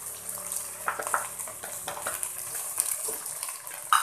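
Drumstick, shallot and tomato pieces sizzling in oil in a steel pot, a steady hiss. There are a few short knocks and scrapes of a utensil against the pot, the loudest near the end as a wooden spatula starts stirring.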